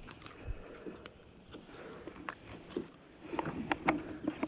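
Handling noise of a bass being unhooked in a kayak: scattered light clicks and small knocks over a soft rustle, growing busier in the last second or so.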